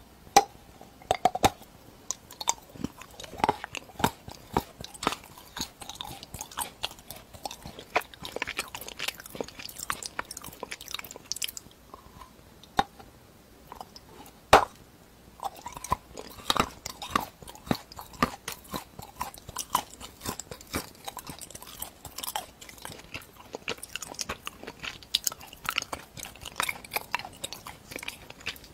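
Chocolate shaped like rusty nuts and bolts being bitten and chewed: irregular sharp cracking snaps as pieces break off, between stretches of crunchy chewing. The loudest snap comes about halfway through.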